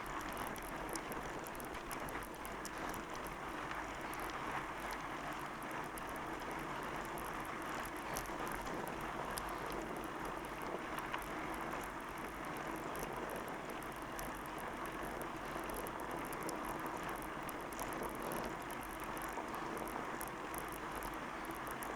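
Fat bike being ridden: a steady rolling and crunching noise from the wide tyres on the trail surface, with light rattles and clicks from the bike.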